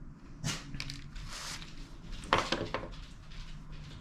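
Small parts and tools handled on a bench: a few light clicks, clinks and scrapes, the loudest about half a second in and about two and a half seconds in, over a faint steady hum.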